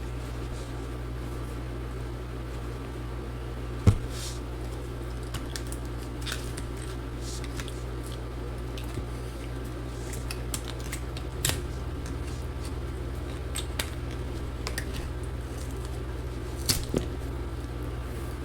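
Scattered light clicks and taps of hand tools on the laptop's case and battery, the sharpest about four seconds in and a pair near the end, over a steady low hum.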